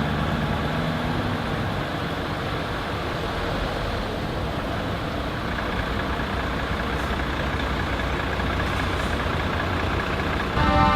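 Heavy trucks running and rolling past, a steady engine rumble. Just before the end a truck's horn starts blasting, several tones at once, louder than the engines.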